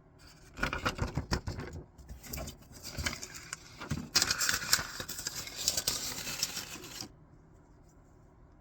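Small hard objects clicking and clattering, with rustling, as things are rummaged through by hand, busiest in the middle and settling down about a second before the end.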